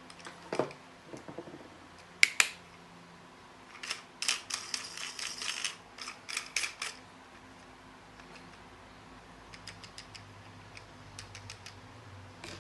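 Small hard objects being handled: a knock, then two sharp loud clicks, then a quick run of clicking and rattling, then a few faint ticks near the end.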